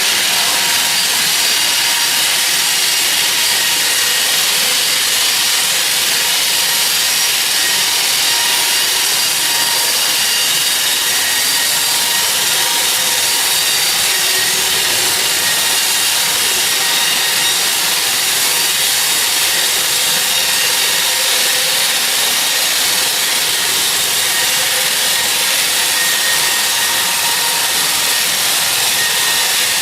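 Sawmill saw cutting steadily through a teak log: a loud, even rasping noise with a faint steady whine.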